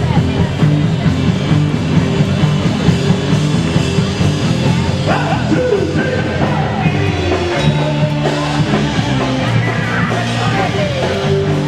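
Amplified live rock band playing, with a singer's voice coming in about halfway through.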